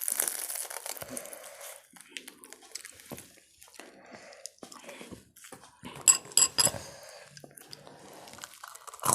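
A person eating: chewing and handling food, with small clicks throughout and three sharp clinks of a utensil or fingers on a plate about six seconds in.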